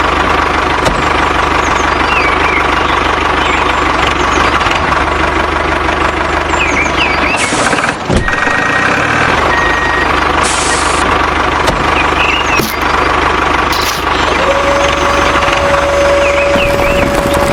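Small engine of a DIY mini tractor running steadily, with birds chirping now and then. The engine sound breaks briefly about halfway through.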